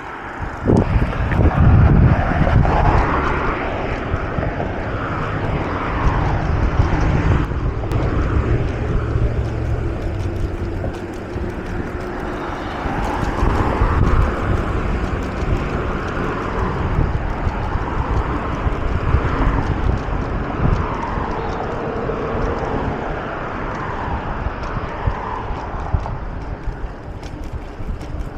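Wind buffeting the microphone in a loud, steady rumble while riding a mountain bike.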